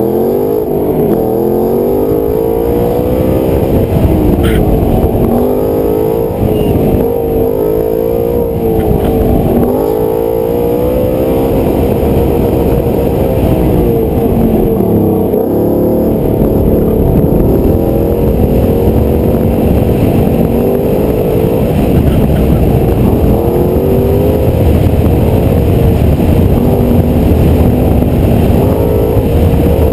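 Car engine being driven hard, its pitch rising and falling again and again every few seconds as the car accelerates and slows through a tight course of cones.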